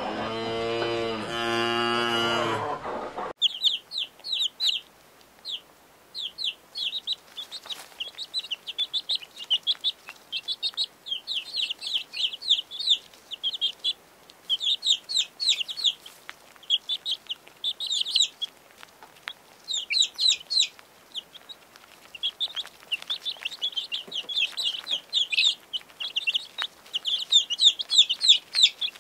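A dairy cow gives one long moo that cuts off about three seconds in. A brood of quail chicks then peeps: many short, high cheeps in quick runs, with a few brief gaps.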